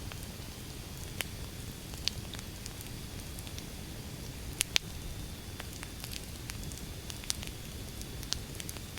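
Wood fire burning with a steady low rumble and irregular sharp crackles and pops, the loudest a pair about four and a half seconds in.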